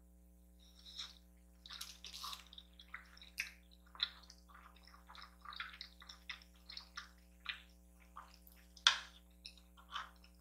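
Close-miked wet eating sounds: a string of short, moist smacks and squishes of chewing, starting about a second in, over a steady low electrical hum.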